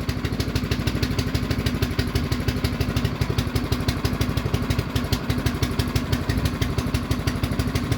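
An engine running steadily at idle, a fast, even chugging that does not change.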